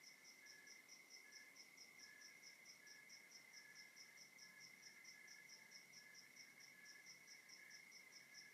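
A faint chorus of crickets at night. One sings a steady, unbroken trill, another chirps evenly at about five chirps a second higher up, and a third chirps in irregular short runs lower down.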